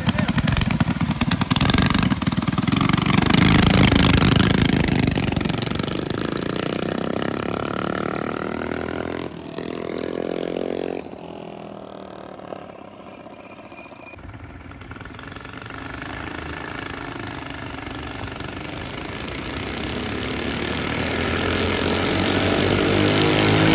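Mini bike's small single-cylinder engine running loudly, fading away as the bike rides off, then growing louder again as it comes back, with its pitch rising and falling with the throttle.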